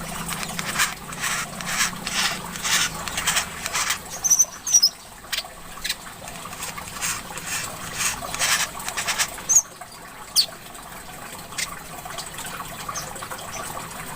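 Small songbirds chirping in rapid runs of short, sharp notes with a few brief high whistles, over a steady trickle of running water.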